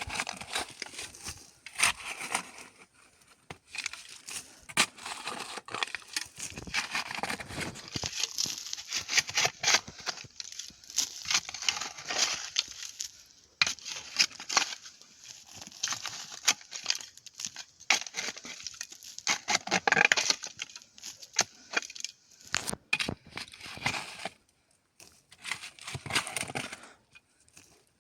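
Irregular crinkling and rustling of something being handled, with many sharp clicks in uneven bursts and a couple of short pauses near the end.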